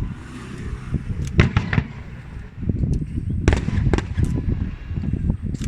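Aerial fireworks bursting: several sharp booms, strongest about a second and a half in and again around three and a half to four seconds in, over a continuous crackling rumble.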